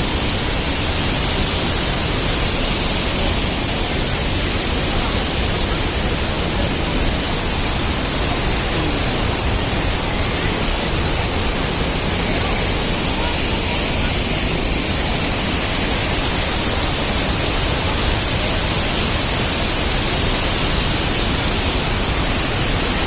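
Large waterfall, Dhuandhar Falls on the Narmada, giving a loud, steady rush of falling water without let-up.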